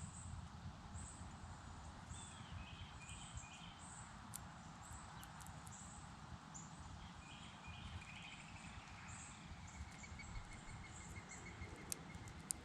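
Faint outdoor wildlife sounds: a short high-pitched chirp repeats about once a second, with other bird calls and a short trill near the end, over a low steady rumble. A couple of sharp clicks come near the end.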